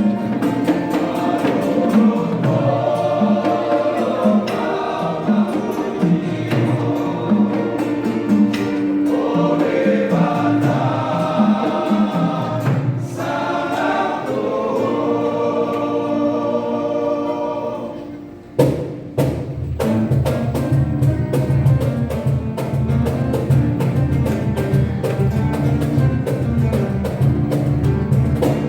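Mixed vocal group singing a Christmas song in close harmony over instrumental accompaniment. About two-thirds of the way through, the singing falls away and a steady bass line and beat carry an instrumental passage.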